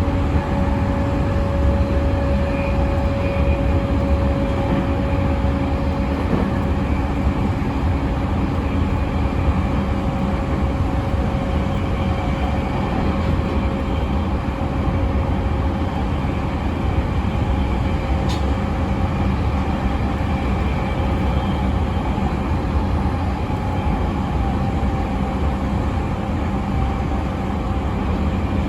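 Running sound of a JR East E217 series electric train with Mitsubishi IGBT-VVVF inverters, heard from inside the car: steady wheel-on-rail rumble with a faint steady motor tone. A brief click comes about 18 seconds in.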